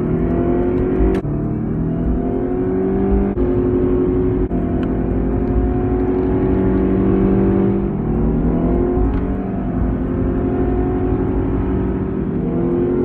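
Chrysler PT Cruiser's engine and exhaust running under way. The pitch climbs as it accelerates and drops sharply a few times, as at gear changes, then holds steady for a few seconds before falling and climbing again.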